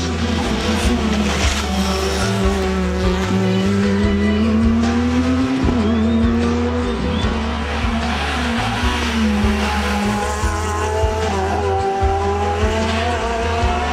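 Rally car engine at high revs, its pitch climbing and dropping several times as it changes gear, over music with a steady bass beat.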